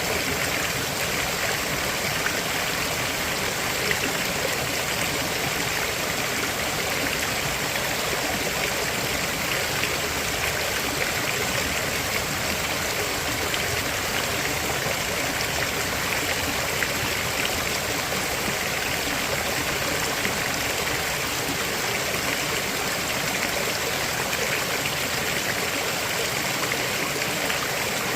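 A river flowing over rocks: steady rushing and babbling water with no breaks.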